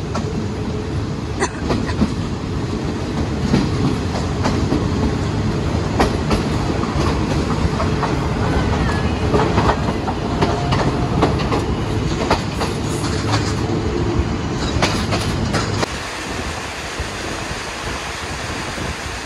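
Train rolling past close by: a steady rumble with irregular clacks of the wheels over the rail joints. The rumble drops away about sixteen seconds in.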